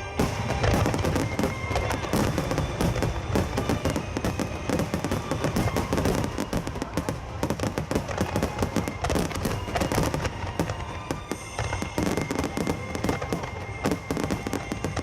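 A large starmine fireworks display: shells going off in a dense, continuous barrage, many bursts a second with no break.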